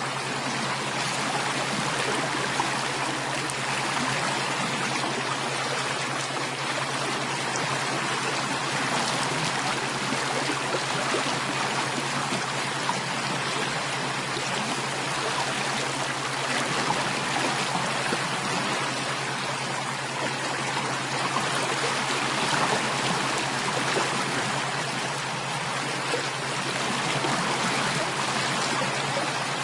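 Steady running water of a flowing stream, an even rushing and trickling with no breaks, over a faint constant low hum.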